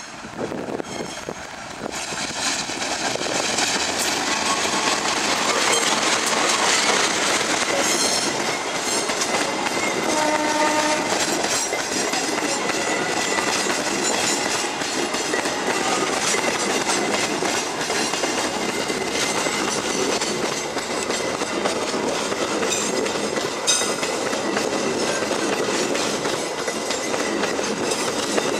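Diesel-hauled passenger train passing close by, wheels clattering over the rail joints, growing louder over the first few seconds as it nears. A short horn blast sounds about ten seconds in, and a thin steady wheel squeal runs through the second half.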